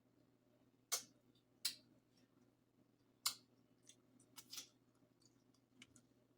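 Close-miked eating of a seafood boil: about six short, sharp clicks and cracks spaced irregularly a second or so apart, over a faint steady hum.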